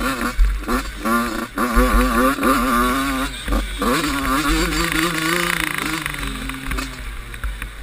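85cc two-stroke motocross bike engines revving hard, their pitch rising and falling quickly as the throttle is worked on and off.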